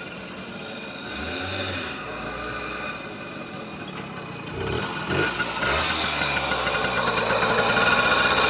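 Small two-stroke engine of a Balkan moped running, getting louder about halfway through as it is revved or pulls away.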